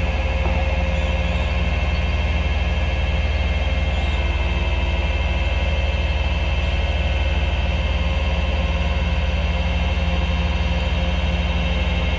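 Tow truck's engine running steadily, a constant low drone with no change in speed.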